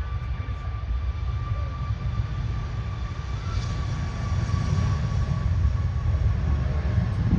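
Jet airliner engines at takeoff thrust: a deep rumble with a steady high whine, growing slightly louder about halfway through.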